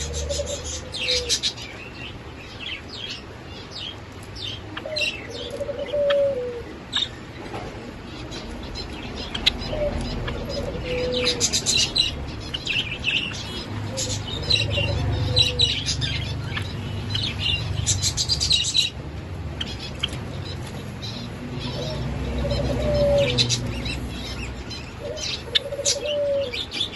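Java sparrows chirping and singing: a busy run of short, high chirps and trills. A lower falling note recurs every few seconds beneath them.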